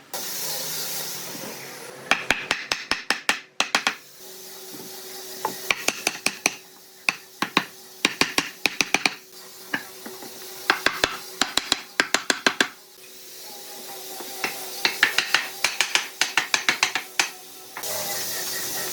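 Quick runs of sharp knocks, several to a run, coming in about five bursts, with a steady hiss in the gaps and again near the end.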